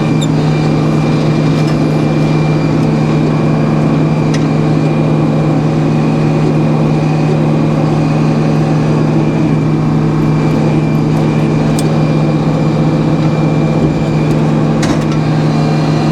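Sawmill engine running steadily at a constant speed, a low even hum with a few faint ticks over it.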